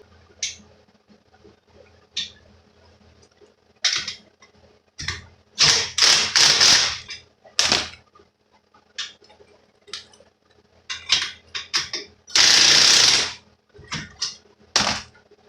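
Impact wrench hammering lag bolts tight in short bursts. There are two longer runs, about a second and a half in the middle and about a second near the end, with several brief blips between.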